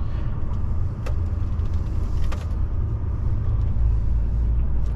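Truck's diesel engine and road noise heard from inside the cab while driving, a steady low rumble, with a couple of faint knocks about one and two seconds in.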